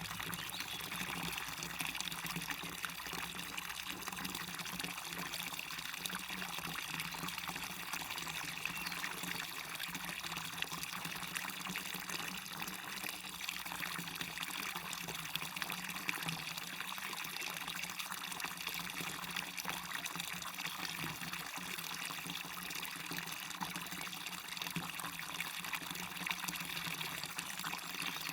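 Small waterfall splashing into a stream, a steady even rush of running water.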